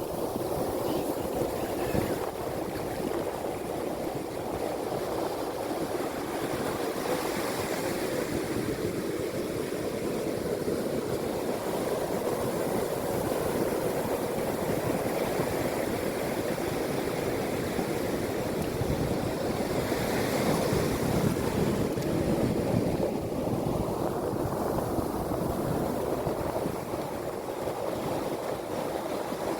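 Sea waves washing in and breaking: a steady rush of surf that swells louder about two-thirds of the way through.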